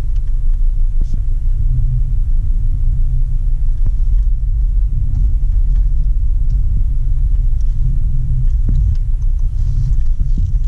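Mk5 VW Rabbit's 2.5-litre five-cylinder engine idling steadily, a low rumble.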